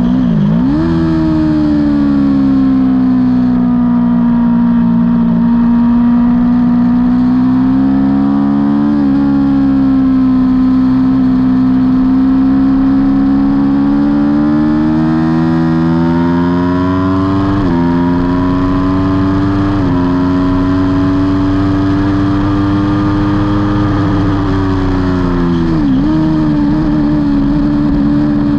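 Aprilia Tuono V4's V4 engine running hard on track. Its pitch rises and falls with the throttle, with several quick steps from gear changes. It drops sharply about half a second in and again near the end as the rider shuts off and downshifts.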